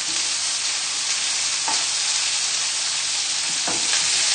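Chicken livers frying in butter in a pan, sizzling steadily, with a couple of faint ticks and a slight rise in the sizzle near the end.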